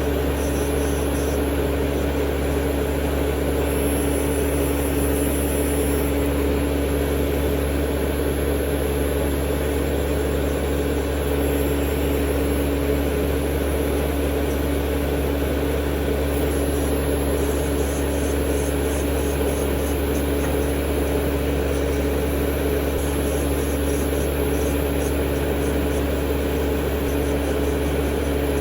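Electric nail drill (e-file) running at a constant speed with a steady hum. Faint, light ticking comes in from about halfway through.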